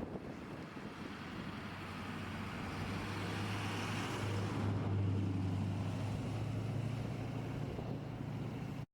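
A motor vehicle's engine hum under a wash of wind noise, growing louder toward the middle and easing slightly after, then cut off abruptly near the end.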